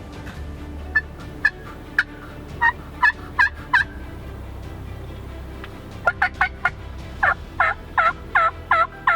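Turkey yelping: two runs of short calls, each falling in pitch. The first run starts slowly and quickens; the second starts about six seconds in at roughly two to three yelps a second.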